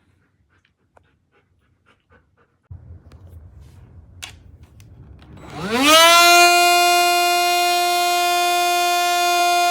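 Cordless handheld vacuum switched on: after some handling clicks and a low rumble, its motor spins up in a quick rising whine and then runs at a steady pitch.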